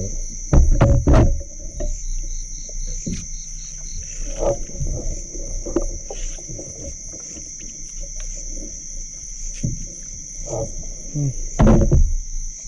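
A steady, high-pitched evening chorus of crickets and other insects, with a short run of quick, evenly spaced chirps about three seconds in. Loud low thumps and knocks of handling or movement come about a second in and again near the end.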